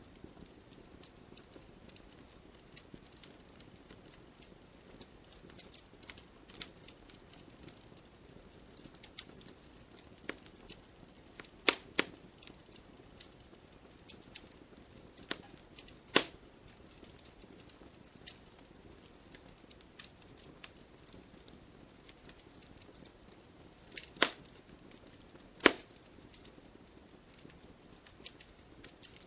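Wood campfire crackling: a steady scatter of small snaps and ticks over a faint hiss. A handful of louder, sharp pops stand out, two close together near the middle and two near the end.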